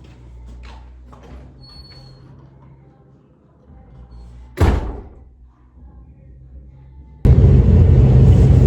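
A door slams shut once, loudly, about four and a half seconds in, after a few faint ticks and shuffles. Near the end a loud steady rumble starts abruptly and keeps going.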